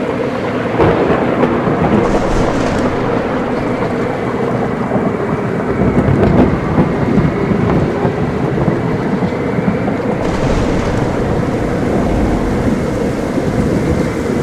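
Heavy thunderstorm: steady heavy rain and wind with deep rolling thunder, swelling about a second in and again around the middle.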